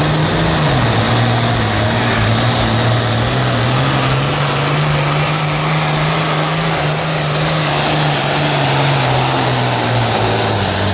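Pulling tractor's engine running loud and steady at full throttle under load. Its pitch drops about a second in and climbs back a few seconds later.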